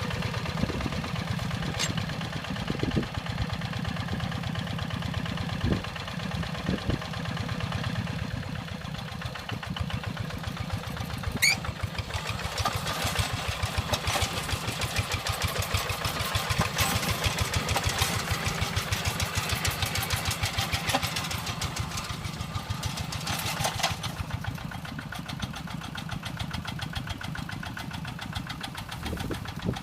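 Single-cylinder diesel engine of a two-wheel hand tractor running steadily while plowing a rice paddy. Its sound gets brighter and a little louder through the middle stretch, then eases, and there is one short rising squeak near the middle.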